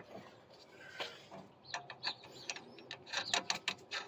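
Irregular metallic clicks and ticks from hand tools working a suspension nut, starting sparse and quickening near the end.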